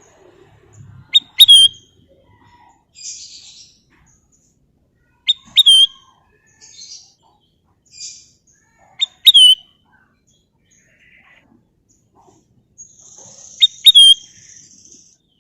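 Kutilang emas, a bulbul, whistling a short sharp phrase four times, about every four seconds. Each phrase is two quick notes, the second sliding downward. Softer rasping chirps come in between.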